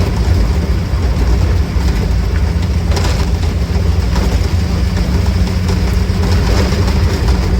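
Inside the cabin of a 1969 Triumph TR5 race car on the move: its high-lift-cam straight-six on triple Weber carburettors running at a steady, loud drone, with road noise.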